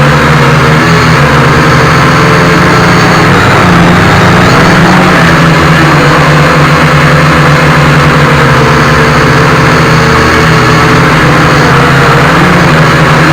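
Small quadcopter's motors and propellers running steadily, very loud and distorted, with the pitch wavering a little as the throttle changes.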